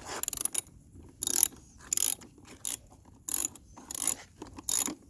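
Ratchet wrench clicking in short bursts, one or two a second, as each back-swing turns a 10 mm bolt loose on a dirt bike.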